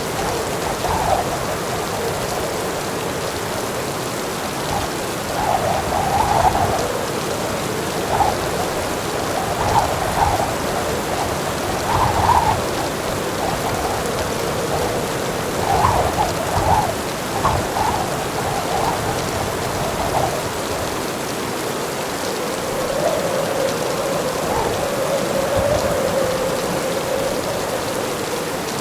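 Heavy rain falling steadily, with uneven louder spatters and swells through the middle and a longer swell near the end.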